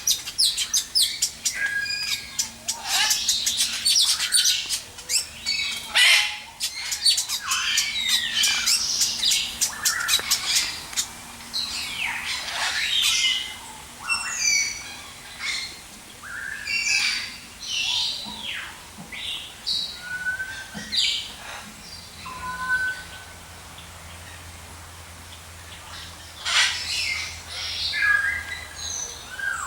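Many aviary birds calling over one another: chirps, squawks and short whistled notes. The calling is dense at first and thins out past the middle.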